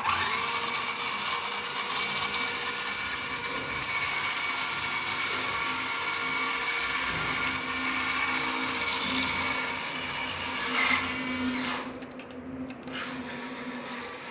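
Small RC crawler's electric motor and centre gearbox running forward, a steady whine with a rough, noisy edge that starts abruptly and eases off about twelve seconds in. The noise comes from the centre gearbox assembly only in forward drive, not in reverse, and comes with a lot of vibration; the owner does not know its cause.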